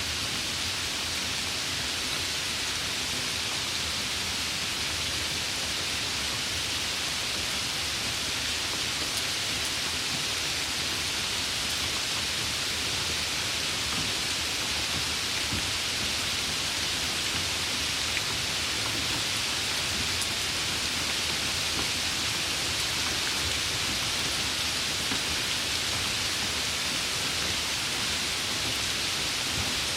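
Steady, even rainfall, a dense hiss of many drops with no single drop standing out.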